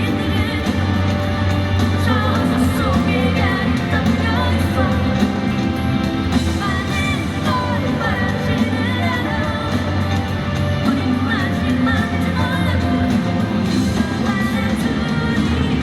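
Live rock band performance: a singer's voice over amplified drums and a full band, loud and continuous.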